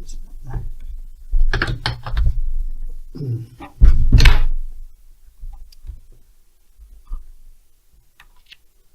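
Heavy thunks and knocks of chainsaw parts being handled on a workbench: a cluster of knocks about one and a half seconds in, a louder thunk around four seconds, then a few faint ticks.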